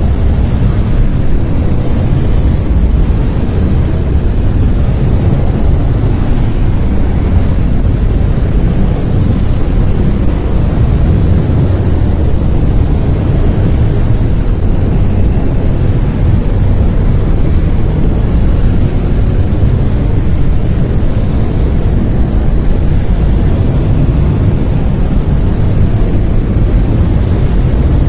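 Steady brown noise: an even, unbroken rumbling hiss weighted toward the low end, with no tones or events.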